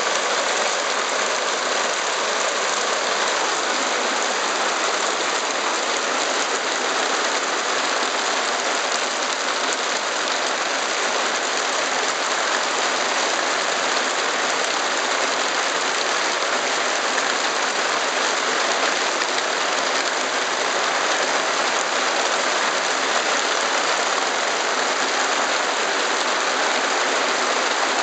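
Heavy hail and rain pelting down on surfaces in a dense, steady patter.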